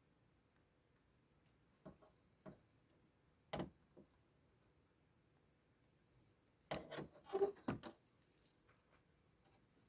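A few light clicks and knocks, then a cluster of louder scraping knocks about seven seconds in, from tools and a circuit board being handled at the workbench during component replacement.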